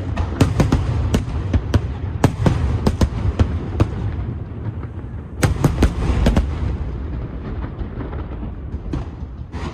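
Aerial fireworks shells bursting in rapid volleys of sharp bangs over a low rumble. The bangs come thick for the first few seconds, then in another cluster about halfway through, and thin out toward the end.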